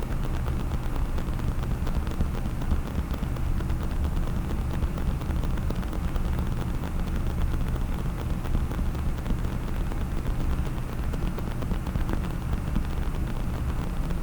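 A case being scratched and rubbed by fingers close to the microphone gives a steady low rumbling noise with faint fine ticks and no separate taps.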